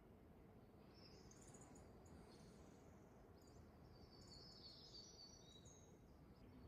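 Faint birdsong: scattered high chirps and twittering, clustered in the middle of the stretch, over a low, steady outdoor background hum.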